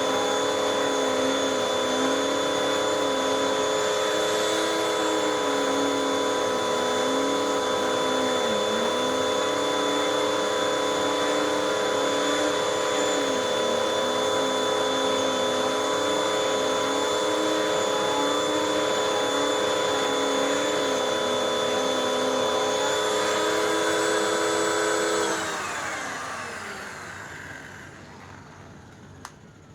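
Hoover WindTunnel 2 vacuum cleaner running with a steady motor whine and a lower note that wavers. About 25 seconds in it is switched off and the whine falls in pitch as the motor winds down.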